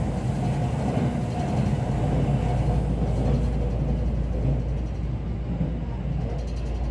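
Running noise inside the Green car of an E217-series electric train moving along the track: a steady low rumble.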